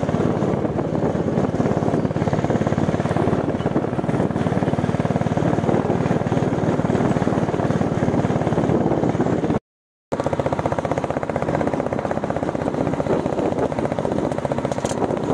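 Royal Enfield Bullet 350's single-cylinder engine running steadily under load on a rough off-road track, its exhaust pulsing evenly. The sound cuts out completely for about half a second around ten seconds in.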